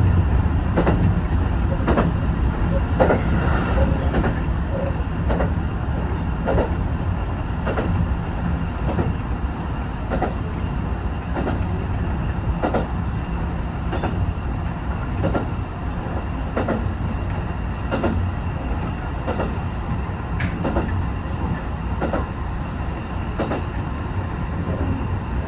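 HB-E210 series hybrid diesel train running at speed: a steady low rumble from the running gear, with a click from the wheels passing over rail joints roughly every second and a quarter.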